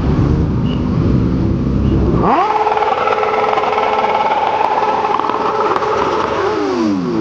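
Motorcycle engines: a deep rumbling engine sound that abruptly gives way, about two seconds in, to a motorcycle revving up and holding a high, steady pitch. Near the end the pitch drops and climbs again.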